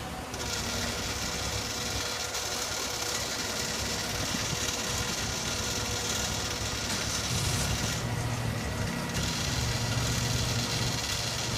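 Engine of a boat lift running steadily while it lowers a boat, with a low drone that grows louder in the last few seconds.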